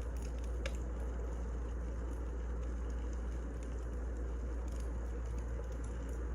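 Burning firewood crackling: a steady low rumble and hiss with scattered sharp pops, the clearest about a second in.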